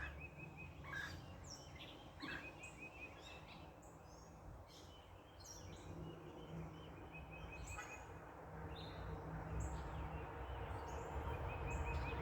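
Backyard birds chirping, with short calls and quick repeated trills throughout, over a low rumble that grows louder in the last few seconds.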